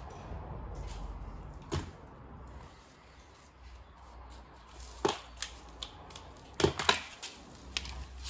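Tools and parts being handled at the engine: a few sharp clicks and knocks, loudest in a quick cluster about seven seconds in, over a low steady hum.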